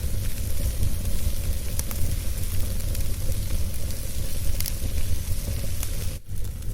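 Wood fire burning in a fireplace: a steady low rumble and hiss with a few sharp crackles. The level dips briefly about six seconds in.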